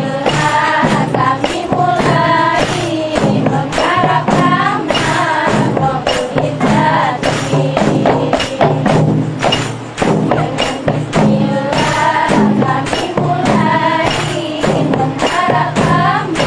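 Rebana frame drums playing a quick, steady beat, with singing over the top.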